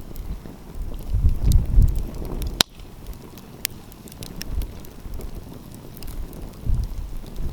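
Wood fire crackling, with scattered sharp pops and one loud crack about two and a half seconds in. Low gusts of wind buffet the microphone, strongest in the first two seconds.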